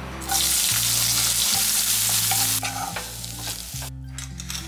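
Chopped onion and green chilli tipped into hot oil in a kadai, sizzling loudly at once and settling to a quieter sizzle after about two and a half seconds.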